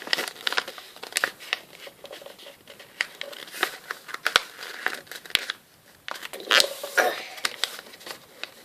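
A sheet of paper being folded and creased by hand: crinkling and rustling with sharp crackles, with a short pause a little after halfway.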